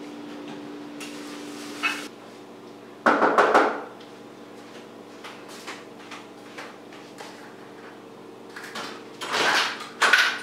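Household kitchen sounds. A steady hum cuts off about two seconds in, a loud clatter follows a second later, then there are light footsteps and, near the end, a door being opened.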